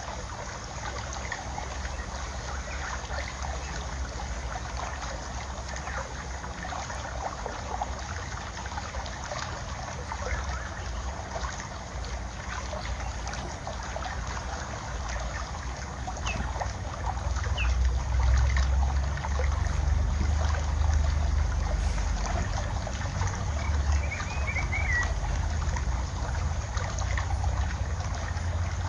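Water trickling steadily, with a few short bird chirps about halfway through and again near the end. A low wind rumble grows louder about two-thirds of the way in.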